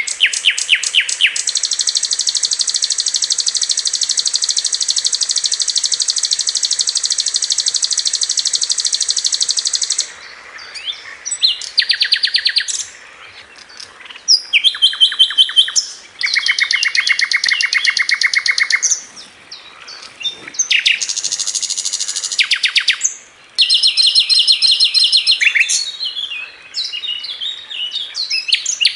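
Sikatan londo flycatcher singing in fast trains of repeated high notes, the rapid-fire 'tembakan' trills. A long trill runs for about eight seconds at the start, then shorter bursts follow, separated by brief pauses.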